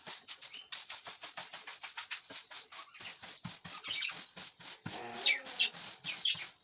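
Dried loofah gourd being rubbed and scraped in quick strokes, several a second, as it is cleaned. Budgerigars chirp a few times in the second half.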